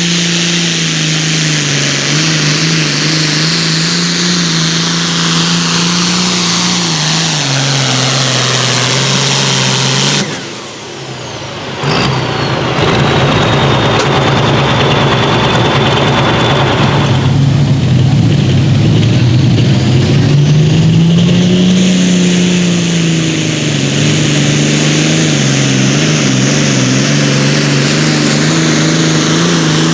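A competition pulling vehicle's engine running hard at high revs, its pitch wavering up and down. The sound drops away sharply for about two seconds near the middle, then comes back just as loud, with a high whistle falling in pitch for a few seconds after.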